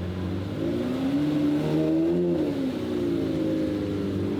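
Car engine running, revved gently so that its pitch rises to a peak about two seconds in, falls back, then rises a little again, over a steady low hum.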